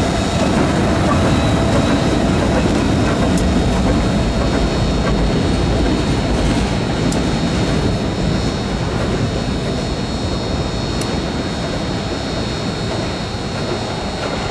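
Train rolling past on the rails, a steady rumble of wheels and cars that slowly fades toward the end.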